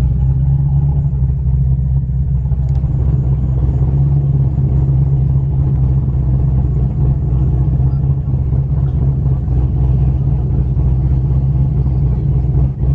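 Chevrolet Corvette's V8 engine and exhaust running steadily at a constant speed, a low rumble with no revving.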